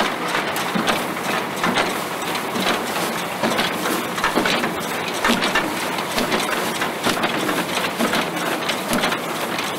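Vintage farm machinery running: a steady mechanical clatter with many small knocks and rattles.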